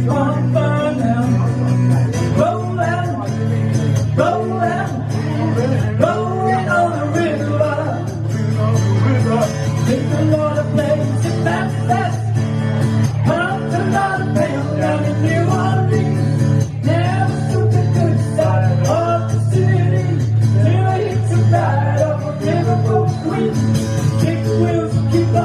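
Live acoustic music led by guitar, playing continuously with a melody line and no lyrics sung.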